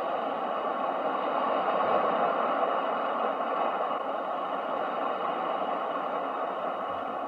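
Ocean waves washing as a steady rush of noise, swelling slowly to a peak about two seconds in and then easing off.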